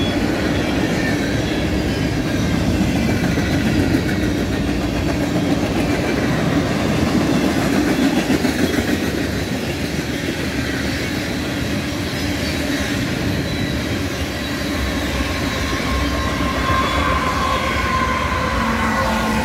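CSX freight train's boxcars and tank cars rolling past close by in a steady rumble, wheels clicking over the rail joints. Near the end the train's two mid-train diesel locomotives (DPUs) come by, adding a steady engine tone.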